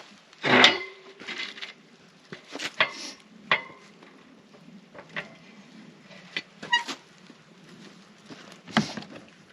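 Intermittent clinks and knocks of metal cookware being handled, with one loud ringing clank about half a second in and a few lighter ringing taps after it.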